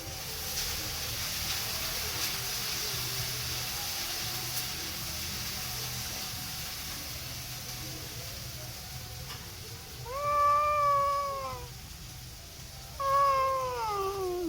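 A domestic cat meowing twice: one call about ten seconds in, and a second near the end that falls in pitch.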